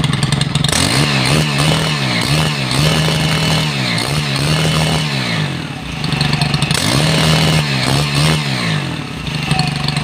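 Stihl BT 131 one-man post hole borer's small 4-MIX engine (a two-stroke with valves) running after a one-pull start, its throttle revved up and down repeatedly. The engine has just had its carburettor tuned to cure hard starting.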